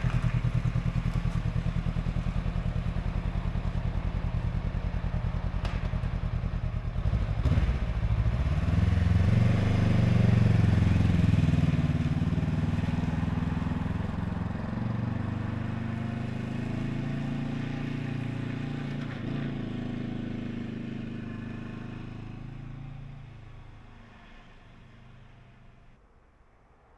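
Adventure motorcycle engine idling with an even beat, then pulling away, its pitch rising and falling with the revs as it gets under way. It fades out over the last few seconds.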